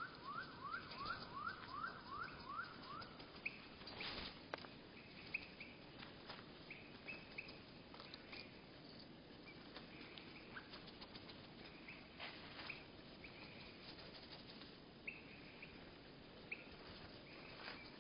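Small birds' calls slowed to a third of normal speed, so they sound low and drawn out. A quick run of rising chirps, about five a second, ends about three seconds in. After that come scattered short notes and a few sharp clicks.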